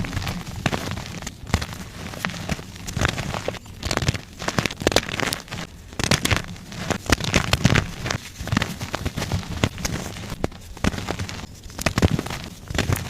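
Blocks of gym chalk being crushed and crumbled, a dense run of irregular crunches and crackles with no steady rhythm.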